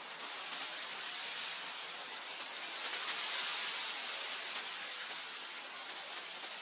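Wind blowing as a steady hiss, swelling into a gust about halfway through and easing off again.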